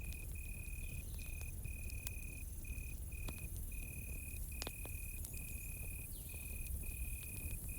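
A cricket chirping steadily in short repeated trills, about two a second, over a wood campfire crackling with scattered sharp pops and a low rumble.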